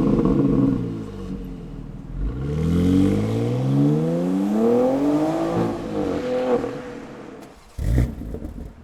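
BMW X3 M / X4 M twin-turbo inline-six exhaust during a rev demonstration: the engine comes off high revs about a second in, climbs in a rising sweep from about two seconds in, peaks past the halfway point and falls back to idle, then gives one short sharp blip near the end.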